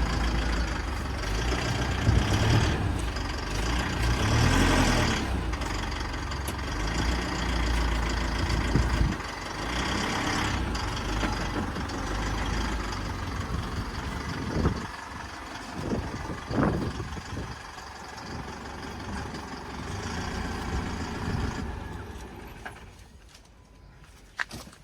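Heavy vehicles running close by, with a deep engine rumble that is loudest for the first several seconds. A few sharp knocks follow, and the sound fades away near the end.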